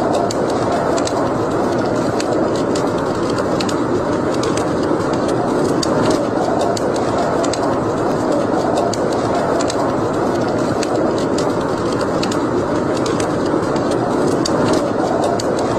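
Wood fire burning in a fireplace: a steady rushing noise of the flames with frequent small, sharp crackles and pops.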